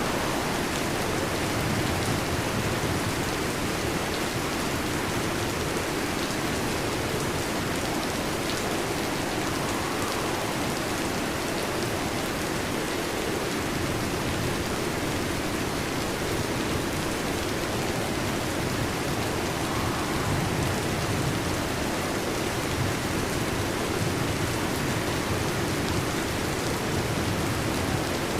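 Steady heavy rain, an even, unbroken hiss of falling drops.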